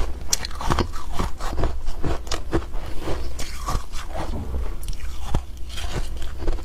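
Close-up chewing of a mouthful of humidifier ice, a run of sharp crunches, several a second.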